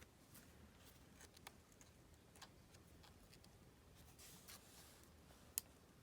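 Near silence with faint paper-handling sounds: scattered light taps and a soft rustle as a glued paper flap is lined up on a journal page, with one sharper click about five and a half seconds in.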